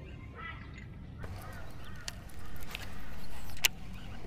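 Birds calling with short calls that bend up and down in pitch, then a few sharp clicks, the loudest near the end.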